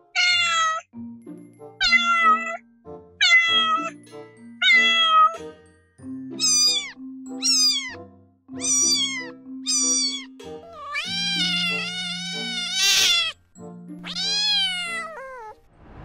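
Kittens meowing over soft background music. There are four short, falling meows about a second and a half apart, then four higher-pitched meows in quicker succession, then two longer, drawn-out meows near the end.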